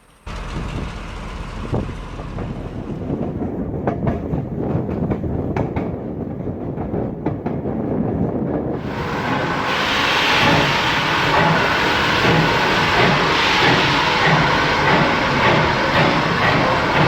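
Train running along the track, growing louder, with clicks from the wheels over rail joints. About nine seconds in, a louder rushing noise sets in.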